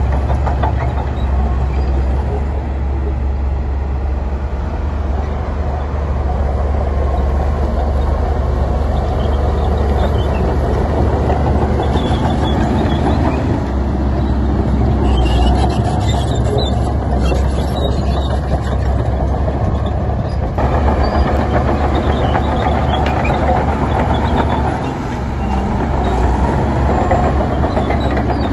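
Heavy diesel earthmoving machinery running steadily, a deep continuous rumble with no break.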